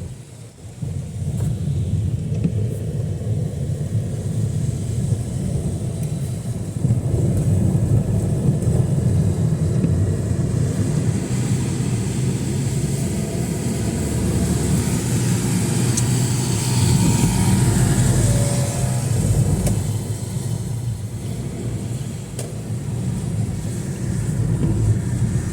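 Traffic on a rain-soaked street: vehicles passing with a steady low rumble, and a swell of wet hiss near the middle as one goes by.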